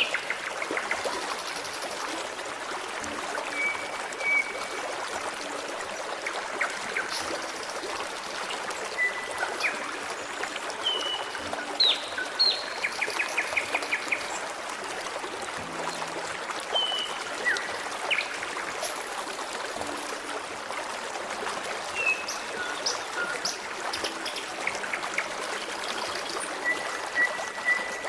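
Forest stream babbling steadily, with birds chirping and whistling over it in short scattered calls, including a quick trill about halfway through.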